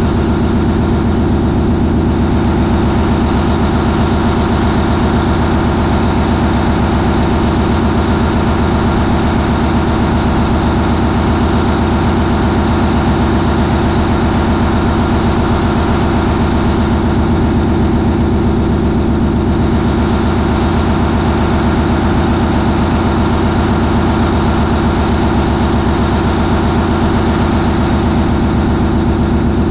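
MAN 20V28/33D STC 20-cylinder V diesel marine main engine running steadily at 940 RPM. It is loud and unchanging, with a deep many-toned drone.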